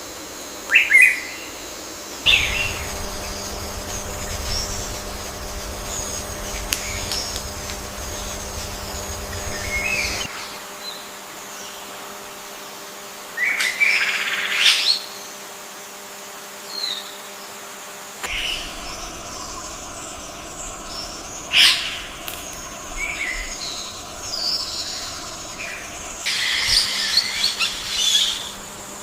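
Forest birds chirping and calling: scattered short chirps and quick rising calls, with a busier burst of chirping near the end, over a steady background hum that shifts abruptly a few times.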